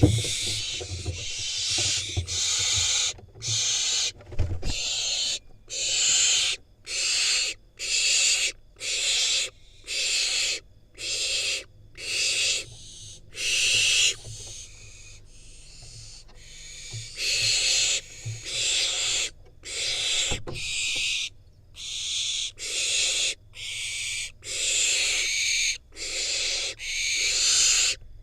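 Barn owl fledgling giving its begging call: rasping, hissing screeches about half a second long, repeated roughly once a second, with a short lull partway through.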